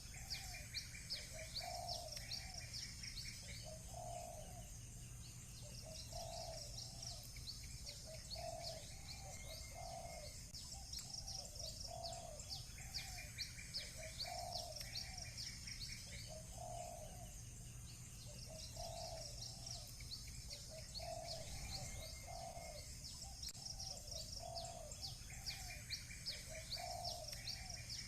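Birds chirping in quick high runs, with short trilled bursts, over a dove cooing again and again at about one call a second.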